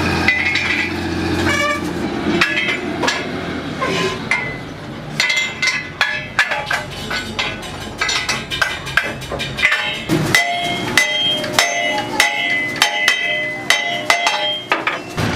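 Irregular hammer blows on steel, many of them ringing on after the strike, coming thick and fast in the second half. A steady low hum sits under the first couple of seconds.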